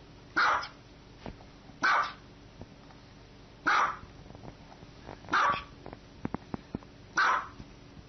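Small white dog barking: five short, sharp barks at an even pace, about one every one and a half to two seconds. A few faint clicks fall between the fourth and fifth barks.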